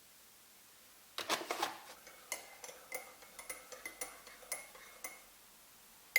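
Cutlery clinking against crockery: a short clatter about a second in, then about ten light, ringing clinks over the next three seconds, and one sharper clink at the end.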